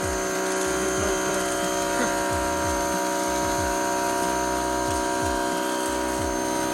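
Car wash machinery running: a steady mechanical hum with several held tones over a wash of spraying water.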